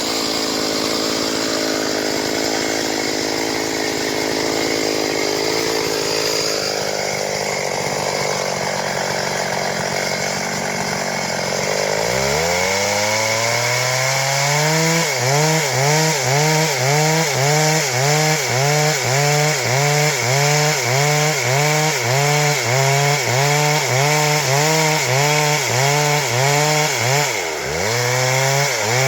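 Stihl MS 382 two-stroke chainsaw running hard, cutting wood. About twelve seconds in its engine note climbs, then wavers up and down about one and a half times a second, with a brief drop near the end.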